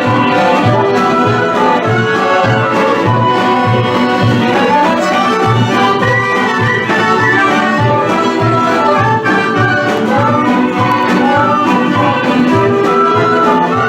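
Instrumental Vlach folk dance medley with a steady, even bass beat under a busy melody.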